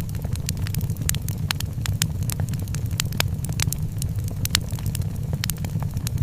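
Wood fire crackling in a fireplace: frequent sharp pops and snaps, irregular and several a second, over a steady low rumble.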